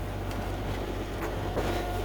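Sailboat's engine running steadily at low revs while motoring in with the sails down, a low even hum with a few faint clicks over it.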